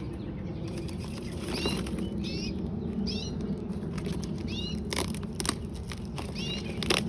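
Pet canaries in a cage giving a few short chirps in the first half, followed by several sharp clicks in the second half.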